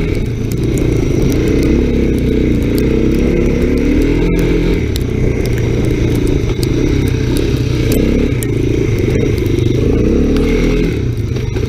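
Small single-cylinder off-road engine running under riding load, its pitch rising and falling as the throttle is worked, with scattered clicks and clatter.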